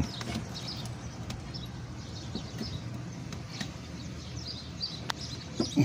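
Birds chirping in the background over a steady low hum, with a couple of sharp clicks near the end.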